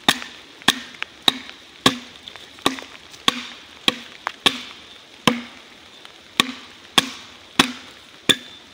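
Axe chopping into a log, a steady run of about fourteen sharp strikes, a little under two a second, hewing a thin layer off the surface to break up the growth rings so the log will catch fire faster.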